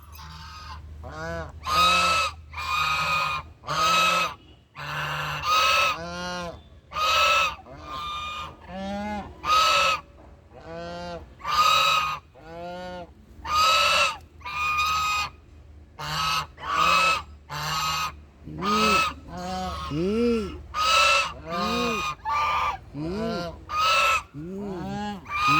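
Domestic waterfowl calling over and over, roughly one call a second; some calls are flat with strong overtones and others arch up and fall in pitch, as if from more than one bird.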